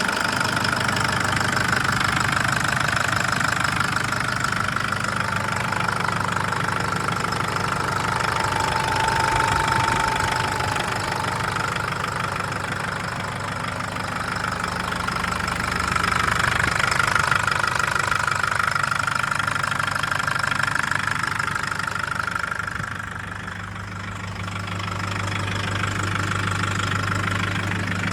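Nissan GU Patrol's 3.0-litre common-rail turbo-diesel running with a loud, rapid knocking. The cause is unknown to the owner: the engine also lacks power and has logged fuel-rail-pressure fault codes.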